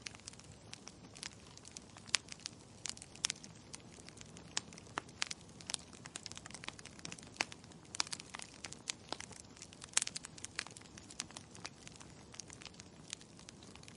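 Wood fire crackling in a fireplace: irregular sharp pops and snaps, a few a second, over a soft steady hiss.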